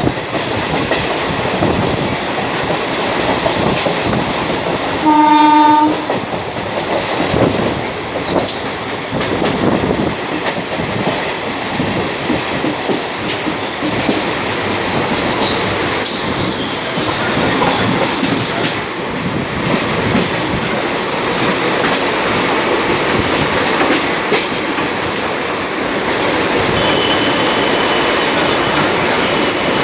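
Indian Railways train running on the track, a steady rumble with wheel clatter on the rails. A horn sounds once for about a second, roughly five seconds in.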